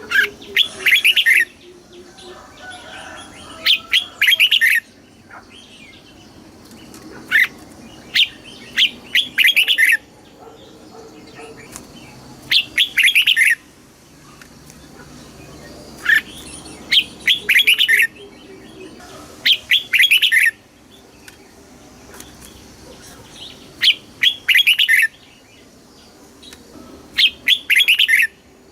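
Red-whiskered bulbul singing loud, short phrases of quick, bubbling notes, one phrase every three to four seconds.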